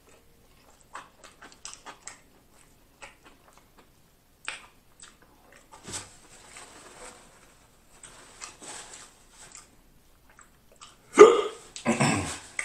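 Close-miked chewing of a Chicago-style Polish sausage sandwich: soft wet clicks and lip smacks scattered throughout, then two louder mouth-and-throat sounds about a second apart near the end.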